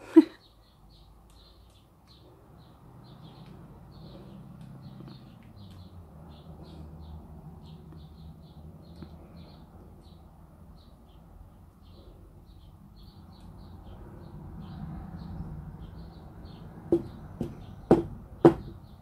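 Faint birds chirping over a low background rumble, with a sharp click just after the start and a cluster of four sharp knocks near the end.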